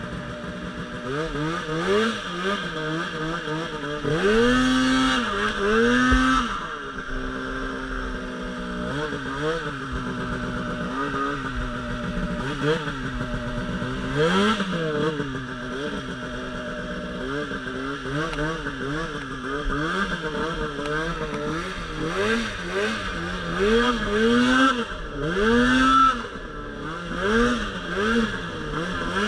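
Polaris RMK Pro 800 snowmobile's two-stroke engine riding through deep powder, its revs rising and falling again and again as the throttle is worked on and off.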